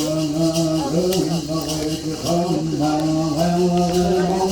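A man's voice singing or chanting in long held notes that step up and down in pitch, with faint light ticking behind it.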